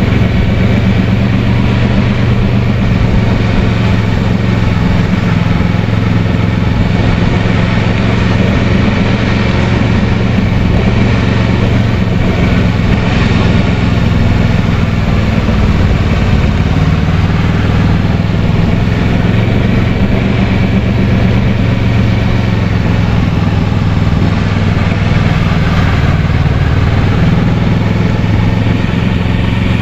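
Kawasaki Versys 650 parallel-twin engine running steadily under way, its pitch shifting slightly a couple of times, over a steady rush of noise.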